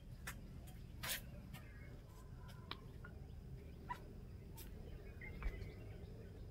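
Faint scattered bird chirps mixed with a few sharp clicks, the loudest about a second in and again near the end.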